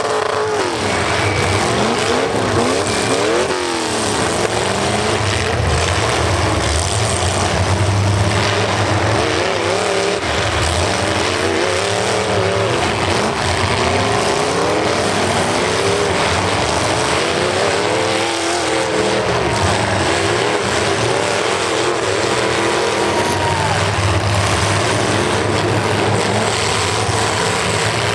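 Several demolition derby cars' engines revving hard and dropping back again and again.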